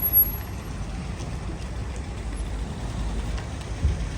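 Steady low rumble of a motor vehicle, with a single knock a little before the end.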